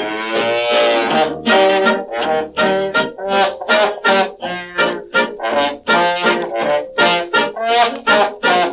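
Instrumental break from a novelty song record: a small dance band with horns plays a bouncy tune in short, evenly spaced notes with a steady beat.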